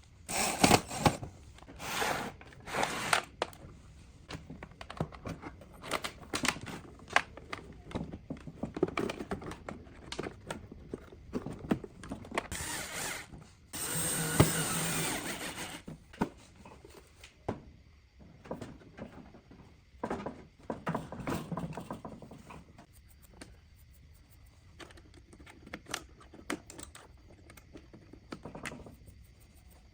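Workshop handling sounds: scattered clicks and knocks of tools and parts, with a small power tool running for about two seconds around the middle.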